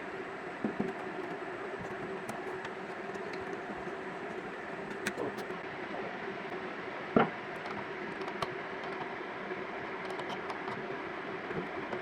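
Steady mechanical hum with scattered small metallic clicks and one sharp knock about seven seconds in.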